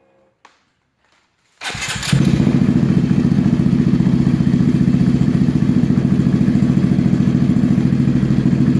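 Honda Grom's 125 cc single-cylinder four-stroke engine with a Zoom aftermarket exhaust, started from cold about a second and a half in, catching almost at once and settling into a loud, steady idle with a fast, even pulse.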